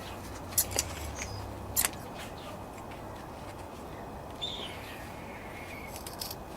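A few sharp clicks in the first two seconds, then a short bird chirp about four and a half seconds in, over a steady outdoor background.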